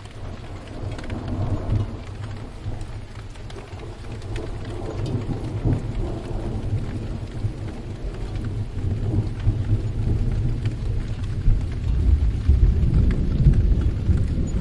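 Steady rain with rolling thunder rumbling underneath, fading in and building louder toward the end.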